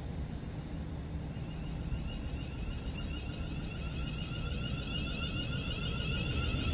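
An approaching train, heard before it is seen: a rising whine and hiss from the wheels on the rails that grows steadily louder.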